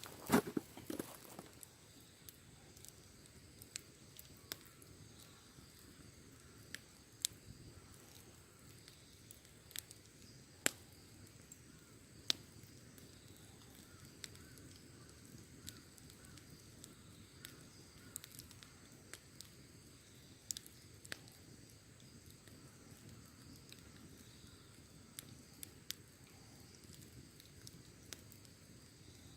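Wood campfire crackling: scattered sharp pops and snaps, a few seconds apart, over a soft low hiss of burning. A louder clatter comes right at the start.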